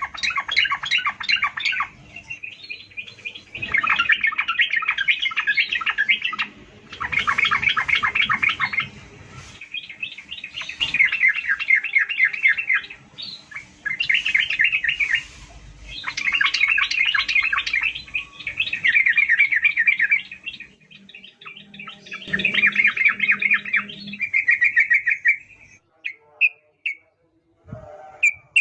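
Yellow-vented bulbul (trucukan) singing in full voice: repeated bursts of rapid, bubbling chattering notes, each lasting two to three seconds with short pauses between, thinning to a few single short notes near the end.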